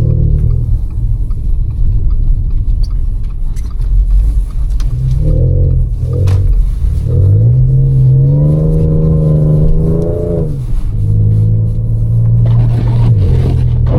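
Audi S5's supercharged 3.0-litre V6, tuned with its resonator deleted, pulling under acceleration: short blips of revs, then a longer climb held near the top, a drop in revs just after halfway, then a steady cruise. A low tyre and road rumble runs underneath.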